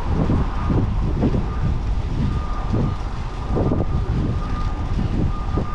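Wind buffeting the microphone of a camera on a moving bicycle, in repeated gusts over a steady rumble of street traffic, with a faint thin steady whine running through it.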